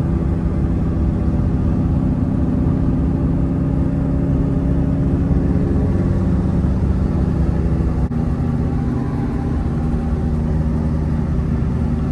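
Infiniti G37's VQ V6 with a loud aftermarket exhaust, droning steadily while cruising, its pitch shifting slightly about halfway through and dipping briefly about eight seconds in.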